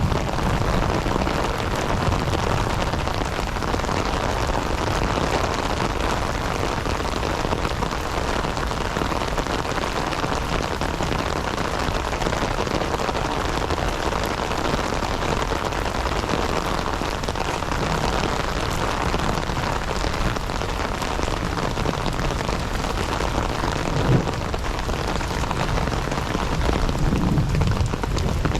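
Heavy rain falling steadily, with a couple of brief low thumps near the end.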